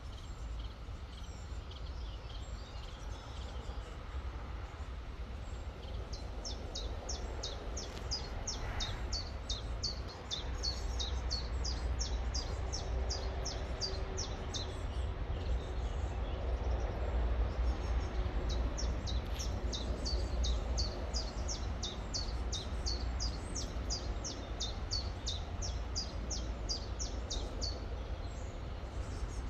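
River water flowing steadily under a low rumble. Over it a songbird sings two long runs of quick, high, downward-sweeping notes, about three a second: the first starts about six seconds in and the second about two-thirds of the way through.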